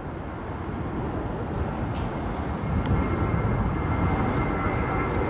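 Jet airliner engines: a broad noise that slowly grows louder, with a thin high whine coming in about halfway through.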